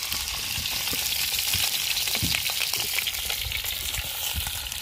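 Chorizos sizzling as they fry in a pan: a steady hiss full of small crackling pops.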